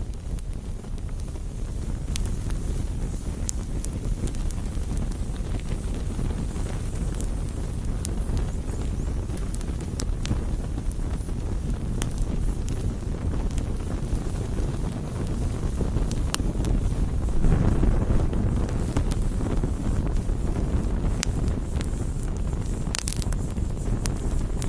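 Campfire burning: a steady low rushing under scattered sharp crackles and pops of burning wood, swelling louder about two-thirds of the way in.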